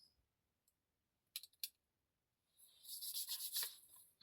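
A few light clicks, then about a second and a half of quiet, high-pitched rustling and rattling as small objects are handled on a table.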